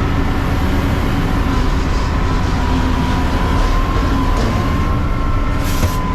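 Mack CNG-chassis garbage truck running steadily, a low rumble with a steady whine over it, and a short hiss near the end.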